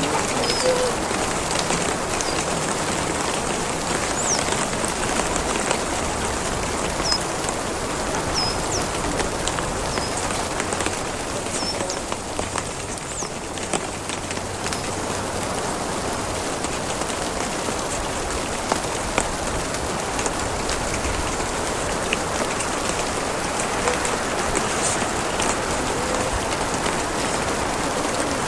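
Steady rain falling on the campsite during a storm, an even, unbroken hiss of drops.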